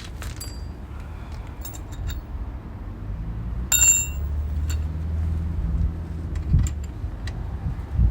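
Metal clinks and light knocks. About four seconds in comes one sharp, ringing metallic clink, over a low steady rumble.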